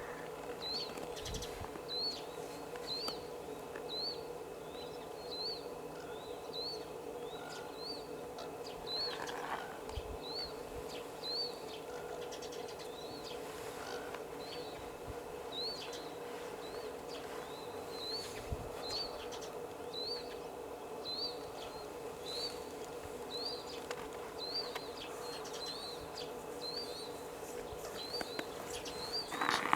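A small bird repeating a short, high chirp about four times every three seconds, over a steady low hum.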